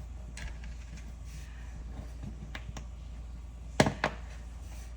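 Plastic Lego bricks clicking and tapping as pieces are handled and pressed into place, with two sharp clicks close together a little under four seconds in.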